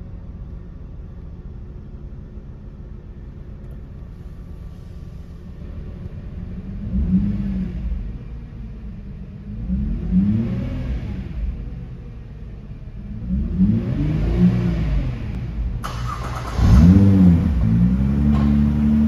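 Nissan GT-R's 3.8-litre twin-turbo VR38DETT V6 idling, then revved four times while parked, each rev rising and falling in pitch. The last rev is the loudest, and the engine settles to a steady idle after it.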